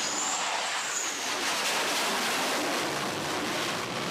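Jet engine noise on an aircraft carrier's flight deck: a steady loud rush with a thin high turbine whine that rises slightly and fades about a second in.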